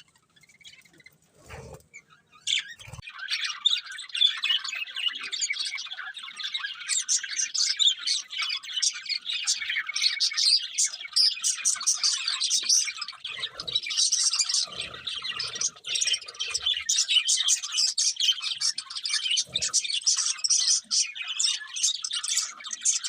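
Budgerigars chattering and chirping in a dense, rapid stream of high twittering, starting about three seconds in after a near-quiet moment. A few soft low knocks sound under it.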